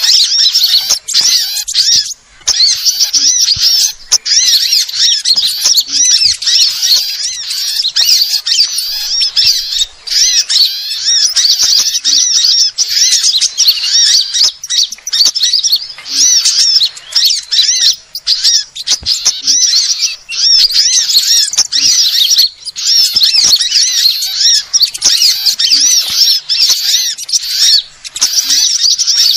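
Bird-lure recording of small birds, sunbirds by the title, chirping and twittering in a dense, rapid stream of high-pitched notes with only brief pauses. It is a lure call played to draw in wild small birds.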